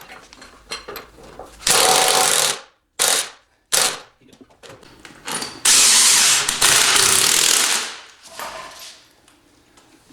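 Pneumatic impact wrench run in short bursts, then one longer run of a couple of seconds, driving nuts onto bolts.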